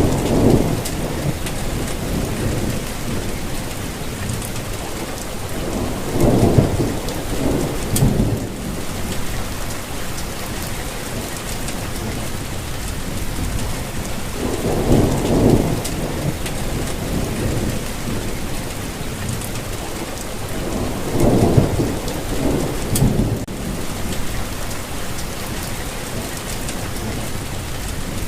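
Steady, heavy-sounding rainfall hissing throughout, with four low rolls of thunder rumbling in and fading: one at the start, then a few seconds apart through the rest.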